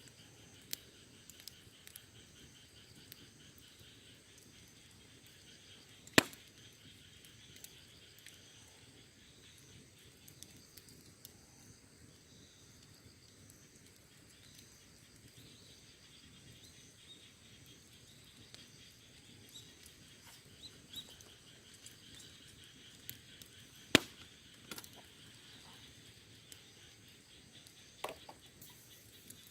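Wood fire crackling: scattered small snaps and ticks, with two loud sharp pops, one about a fifth of the way in and one about four-fifths through.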